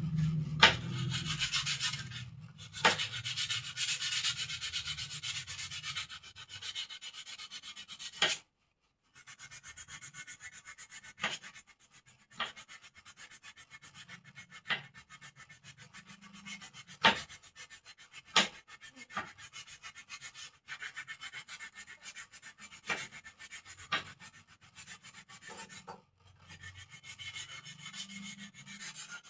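Sandpaper rubbing on the wooden parts of a bird cage in quick repeated strokes, smoothing the wood. Occasional sharp knocks of the parts being handled break in, and the rubbing stops briefly about eight seconds in.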